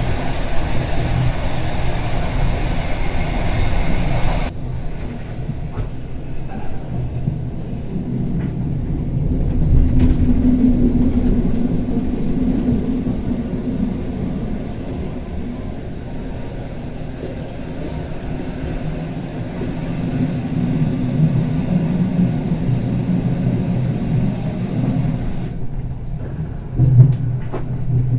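Bernina Express train running, heard from inside the carriage: a steady low rumble of wheels on rail. A higher hiss cuts off sharply about four seconds in, and a brief knock comes near the end.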